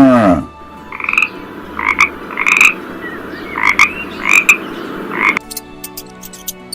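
Frog croaking, about seven short repeated calls over four seconds. A cow's moo ends just at the start, and near the end the sound cuts abruptly to something else with steady tones and sharp clicks.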